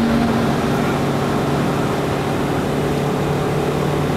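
Renault Clio's engine and road noise heard from inside the cabin at speed, holding a steady engine note.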